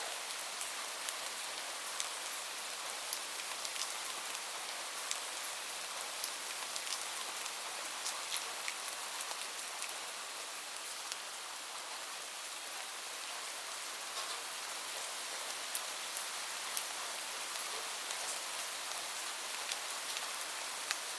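Steady rain, an even hiss with many sharp individual drop ticks scattered through it.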